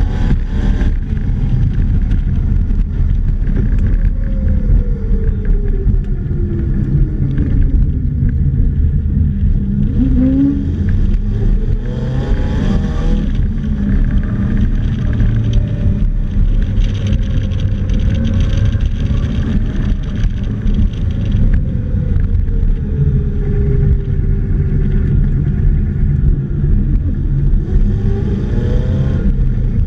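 Polaris Slingshot's engine pulling hard and easing off again and again, its pitch climbing and falling several times as the driver accelerates and lifts, over a heavy wind rumble on the open cockpit.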